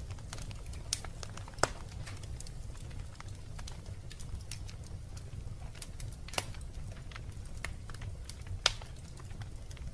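Wood fire burning in a fireplace: a steady low rumble of the flames with scattered sharp crackles and pops, the loudest about a second and a half in and near the end.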